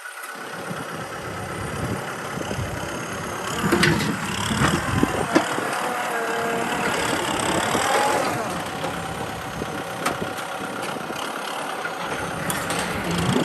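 Kubota M6040 tractor's diesel engine running under work, growing louder over the first few seconds, with a few sharp metallic clanks around the middle.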